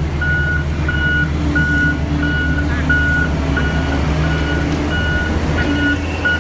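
Reversing alarm of a heavy construction vehicle beeping steadily, about three beeps every two seconds, over the low running of a diesel engine.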